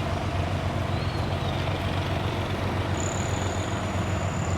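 Tuk-tuk engine running steadily on the move, with road noise. A thin high tone comes in about three seconds in.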